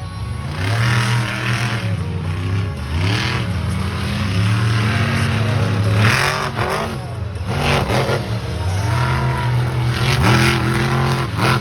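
Monster truck engine revving hard, its pitch climbing and dropping again and again as the throttle is worked, with several short rushing bursts of noise over it.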